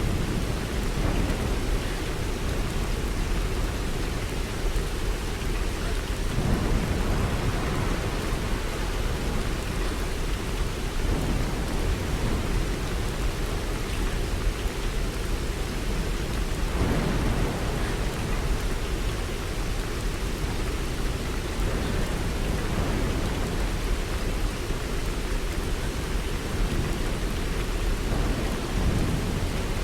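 Steady rain falling, a constant hiss with a deep low rumble beneath it that swells slightly a few times.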